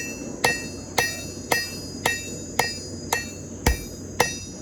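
Cross peen hammer striking red-hot steel on a Paragon anvil, drawing out a tomahawk blade: a steady rhythm of about two blows a second, each with a bright ring from the anvil, one blow near the end landing duller and heavier.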